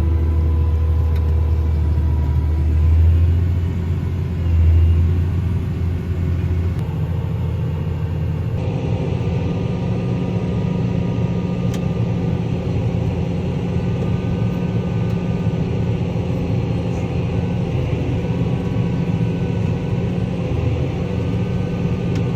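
Tractor engine running steadily while pulling a strip-till rig, a continuous low drone whose tone shifts slightly about eight seconds in.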